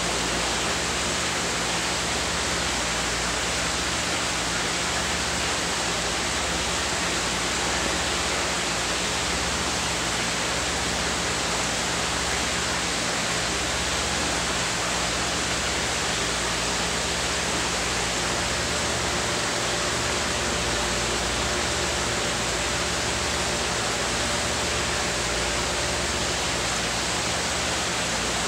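Steady, even hiss-like noise that holds one level throughout, with no distinct events.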